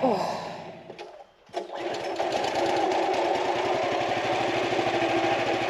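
A small engine running at a steady speed with a rapid, even firing beat. It comes in about a second and a half in, after a brief lull.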